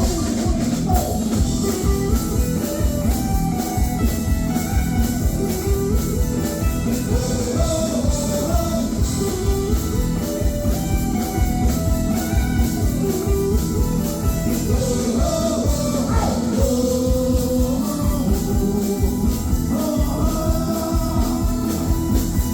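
A Thai song playing: a sung vocal over a band with a steady, driving beat.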